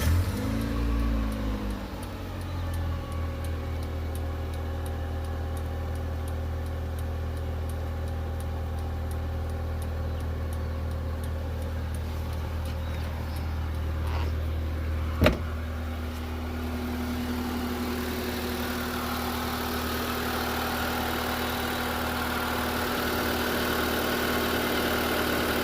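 2003 Honda Civic engine just started, its revs flaring and settling within about two seconds into a steady idle. About fifteen seconds in there is a sharp click, after which a steady whirring hiss builds over the idle.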